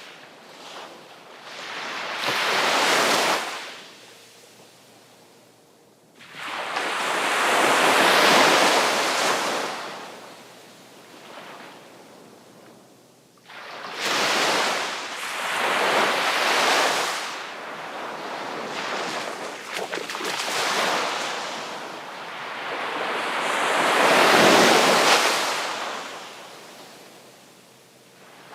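Ocean waves breaking on the shore, each one rushing in as a loud wash of surf and then fading. The biggest breaks come about a third of the way in and again near the end, with a run of smaller washes in between.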